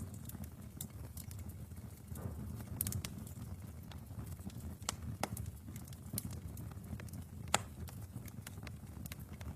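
Wood fire in a fireplace crackling, with irregular sharp pops over a low, steady rumble of the flames. One pop about three-quarters of the way through stands out loudest.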